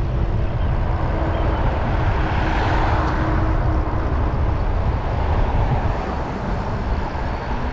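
Wind buffeting the microphone and road noise while riding an electric bike along a road with traffic, with a swell of passing-traffic noise about three seconds in.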